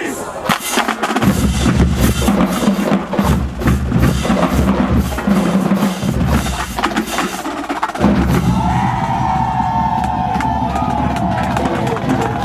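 Marching band drumline playing a cadence: rapid snare strikes and rolls over heavy bass drum hits. A held, wavering higher tone joins about eight seconds in.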